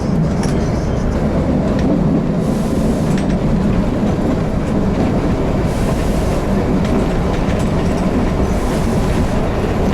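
Kalka–Shimla narrow-gauge toy train running on its rails: a steady, loud low rumble, with a hiss that swells briefly three times.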